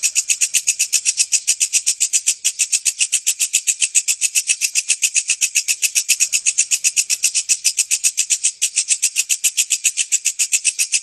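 Walang kecek insect calling: a rapid, steady train of shrill chirping pulses, about ten a second.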